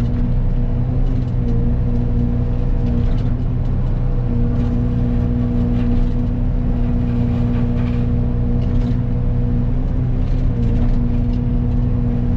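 Excavator engine and hydraulics driving a Fecon forestry mulcher head, a steady drone with a constant whine that dips briefly about three to four seconds in.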